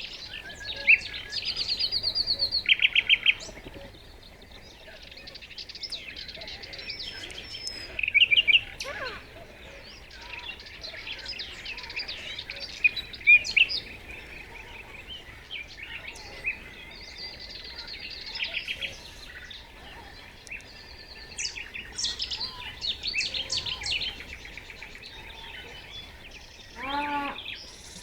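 Nightingale singing: varied phrases of fast, evenly repeated notes and trills alternating with clear whistles. Near the end comes a brief lower, pitched call.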